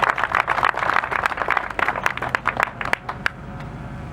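Crowd applauding a winner, many hands clapping irregularly, then thinning out and dying away about three seconds in.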